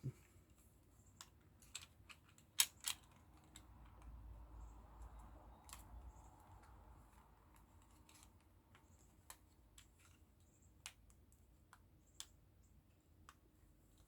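Small plastic model-kit parts being handled and pressed together: scattered light clicks and taps, the loudest a couple of seconds in, with a faint rumble of handling in the middle.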